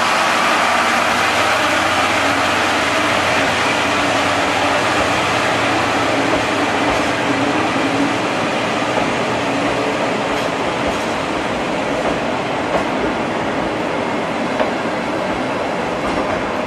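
Passenger coaches rolling past on the rails: a steady rumble and rush of wheels on track, with a few light clicks in the second half.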